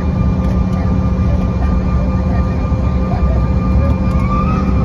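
Steady drone of an airliner's engines and cabin air, heard from inside the passenger cabin: a constant low hum with a few steady higher tones over it.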